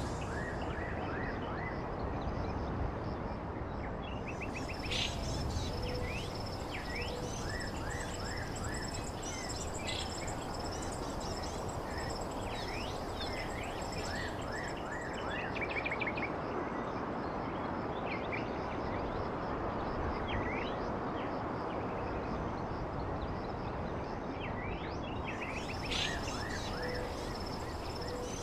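Many birds calling in short, quick chirps over a steady rushing background noise, with a thin high buzzing tone that comes and goes.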